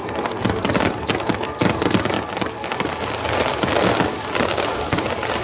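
Fireworks show with many shells bursting together: a rapid, unbroken barrage of bangs and crackling.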